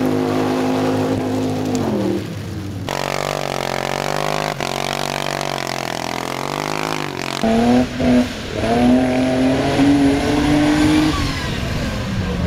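Off-road 4x4 engines revving hard under load in mud, across three cut-together shots: a steady high rev that drops about two seconds in, a wavering engine note from about three seconds, and from about seven seconds an engine climbing in pitch under throttle, then easing off near the end.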